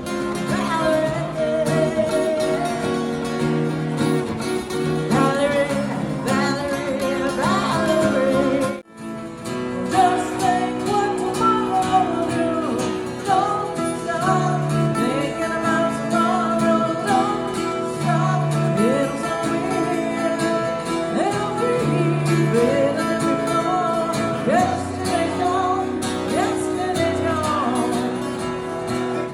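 Live music from a duo: guitar with a sliding melodic lead line over sustained chords. It cuts out briefly about nine seconds in.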